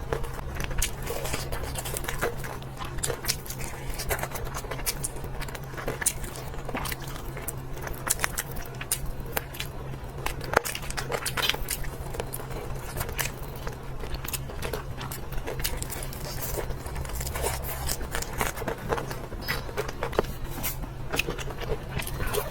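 Close-miked chewing and eating: a continuous run of irregular crunchy clicks and wet smacks over a steady low hum.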